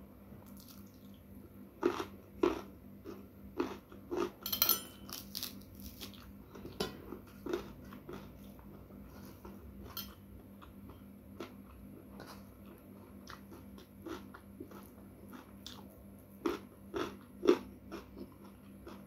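Close-miked eating: a person chewing food with irregular sharp crunches, most of them in a cluster a couple of seconds in and another near the end.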